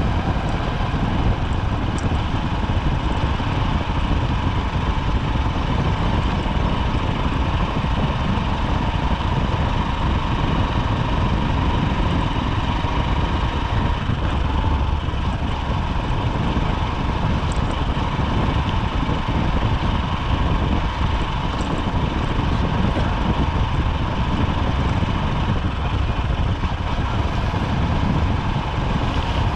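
Honda SP125 motorcycle's single-cylinder four-stroke engine running steadily amid street traffic, picked up by a helmet chin-mounted camera, with no marked revving or braking.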